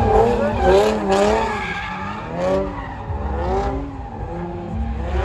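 Car tires squealing with a wavering pitch as a car slides around, over the low rumble of its engine.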